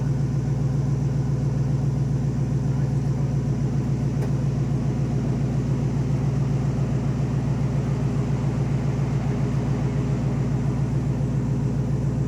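Jeep Wrangler JK engine running steadily at low speed with a quick, even pulse, as the Jeep crawls along an off-road trail.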